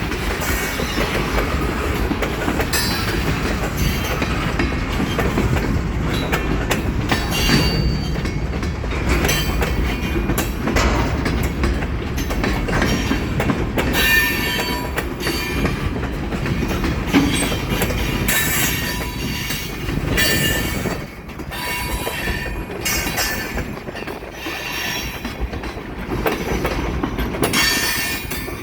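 Railway cars rolling past: steady wheel rumble, the clack of wheels over rail joints, and brief high squeals of wheel flanges against the rail.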